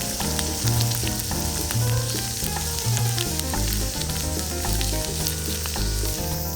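Food frying in hot fat over a campfire: a steady sizzling hiss with many small pops and crackles.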